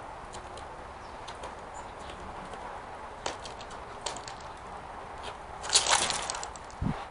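Scattered light clicks and taps as a California scrub jay picks through peanuts on a porch, with a louder burst of clicking and rustling about six seconds in and a short low thump near the end, over a steady hiss.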